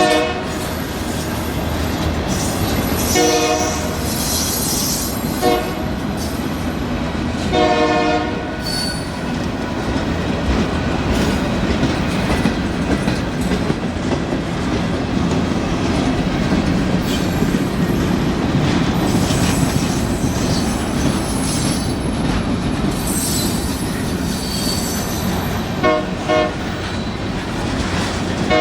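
Union Pacific freight train rolling past with a steady rumble of diesel locomotive and freight car wheels on the rails. The locomotive's air horn sounds several times: a long blast and a short one early on, another long blast a few seconds later, and short blasts near the end.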